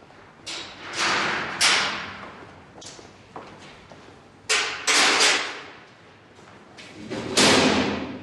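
A series of heavy thuds and bangs at irregular intervals, about eight in all, each dying away over a fraction of a second; the loudest come about one and a half seconds in, around five seconds in and near the end.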